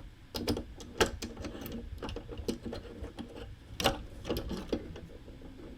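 Irregular small clicks and ticks of a screw being driven with a small screwdriver into the plastic leg of a 1/12-scale Gundam model kit, with the screw failing to catch.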